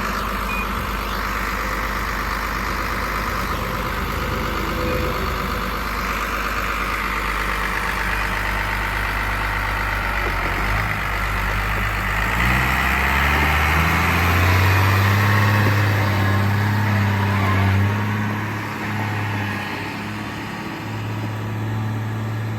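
New Holland T6030 tractor's diesel engine idling steadily, then revving up about halfway through to run faster and louder for several seconds before easing back somewhat near the end.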